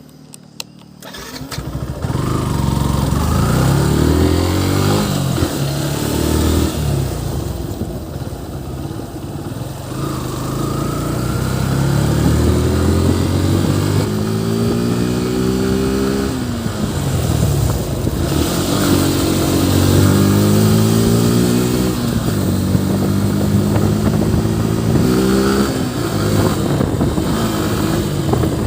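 Yamaha FZ V3's single-cylinder engine coming up loud about a second in, then accelerating through the gears: its pitch climbs and drops back at each shift, several times over, with a steady hiss of wind and road noise underneath.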